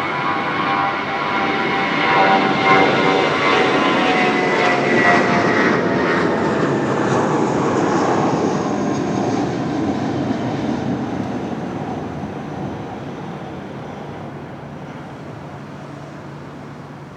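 Jet airliner's engines passing close, a loud rushing roar with whining tones that slide slowly down in pitch as it goes by. It is loudest a few seconds in, then fades steadily away.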